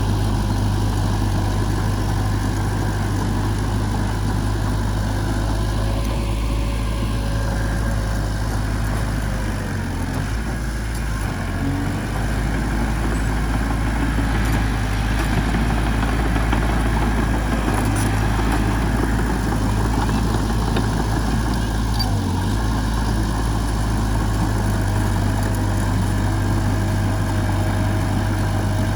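Diesel engine of heavy machinery running steadily at a low, even speed, easing off briefly about ten seconds in.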